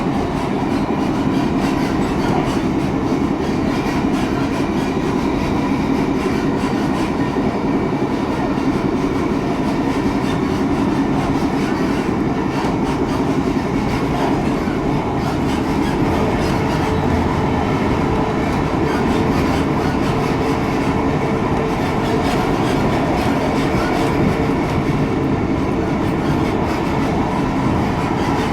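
Class 142 Pacer diesel multiple unit running steadily along the line, engine and wheel-on-rail noise heard from on board.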